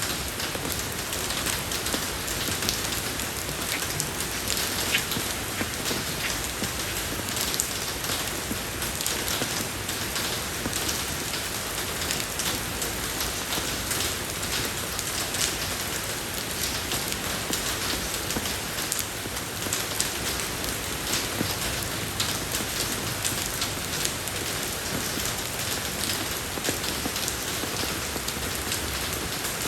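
Steady rain falling on a road surface, an even hiss dotted with many fine ticks of individual drops.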